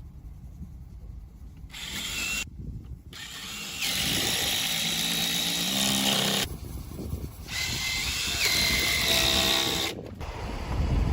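Power tool whining in two short stretches, about four seconds in and again near eight seconds, its pitch stepping up once in the second stretch, between abrupt cuts of construction-site background noise.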